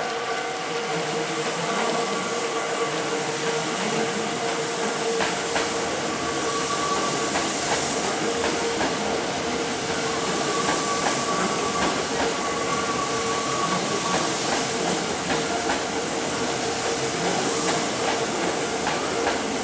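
Hankyu electric commuter train running slowly into the platform, with steady rolling noise and wheels clicking over rail joints. A steady tone is held throughout, and a higher whine comes and goes.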